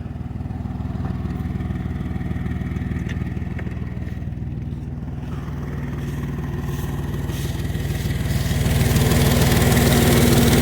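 Dodge pickup engine idling steadily with an exhaust leak; the sound grows louder about eight seconds in.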